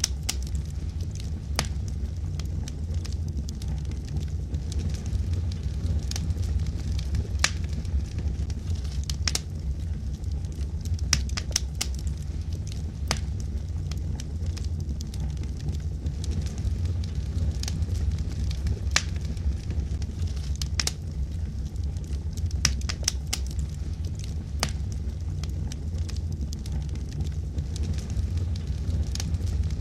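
Wood logs burning in a fireplace: a steady low rumble of the flames with irregular sharp crackles and pops from the wood.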